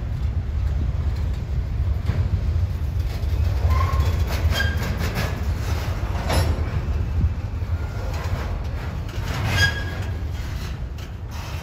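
Double-stack intermodal freight train rolling past: a steady low rumble of the well cars on the rails, with brief wheel squeals and a sharp clank about six seconds in, and the loudest squeal near the end.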